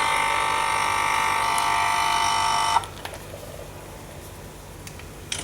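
Nespresso capsule machine's pump buzzing steadily as it pushes hot water through the capsule, then cutting off suddenly about three seconds in as the small cup finishes. A faint click follows near the end.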